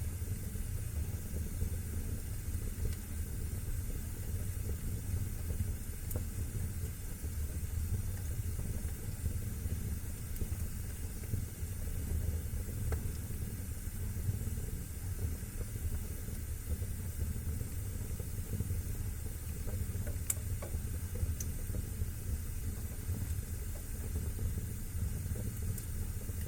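Wood fire burning in a fireplace: a steady low rumble of flames with a soft hiss, and a few sharp crackles scattered through.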